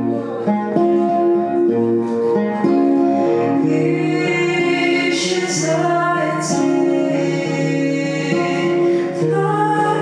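Acoustic guitar played live, with a woman singing over it.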